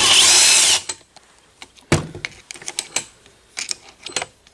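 Handheld power drill running briefly, with a whine that slides in pitch, while backing out a cylinder head bolt. It stops just under a second in and is followed by a sharp metallic clank and a few light metal taps.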